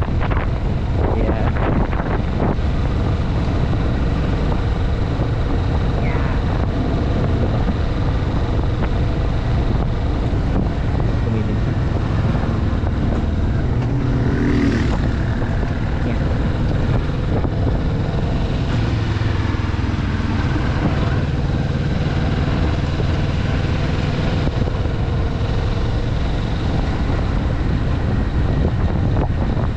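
Kawasaki Vulcan S's 649 cc parallel-twin engine running steadily at cruising speed on a new bike being broken in, heard from the rider's seat with wind rushing over the microphone. A brief passing sound comes about halfway through.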